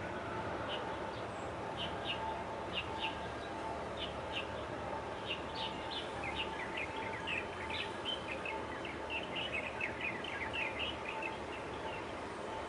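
Small birds chirping: short, high chirps, scattered at first, then a quick, busy run of them through the second half, easing off near the end. Under them runs a steady background hum.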